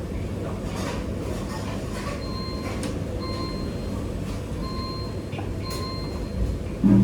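Commercial kitchen background: a steady low rumble, with a short high electronic beep repeating about once a second from about two seconds in and occasional light clicks and clatter.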